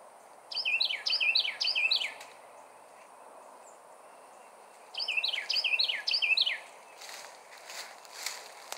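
A songbird singing two loud bursts of song, each a quick run of three repeated falling notes. Near the end, leaves and twigs rustle and crackle as the brush is pushed through.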